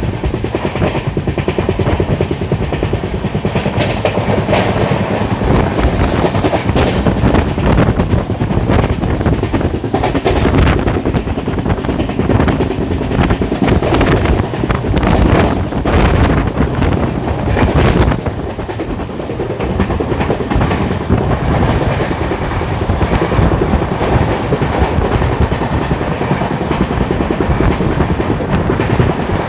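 Passenger train running on the rails, heard from on board: a steady rumble with the wheels clattering over rail joints, the clacks coming thickest in the middle stretch.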